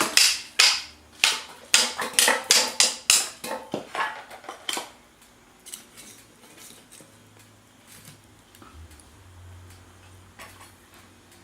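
Metal utensil clinking against cookware, a quick series of sharp strikes for about five seconds that then gives way to a few faint clicks.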